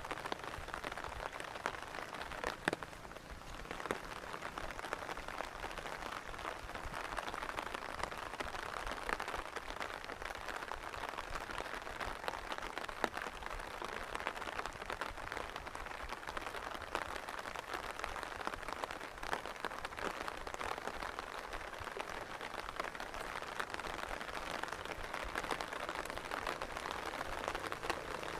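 Steady rain falling, a dense patter of drops striking nearby surfaces, with one sharper knock about three seconds in.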